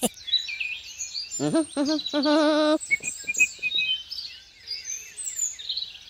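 Small birds chirping and twittering throughout. A loud, short wavering vocal call rises and holds for about a second, starting about a second and a half in.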